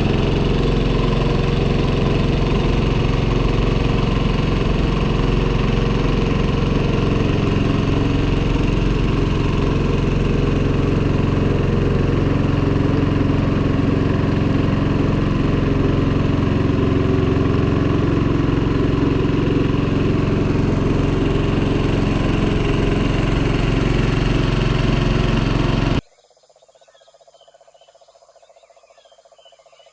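Small boat outboard motor running at a steady speed. It stops abruptly near the end, leaving only faint outdoor background.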